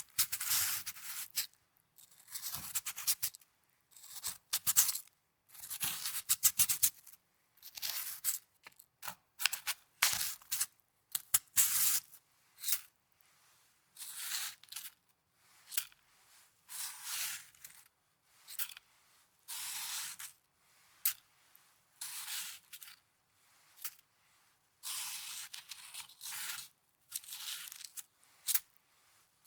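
Snow being crunched and handled: a run of short, crisp crunches in irregular bursts with brief silences between.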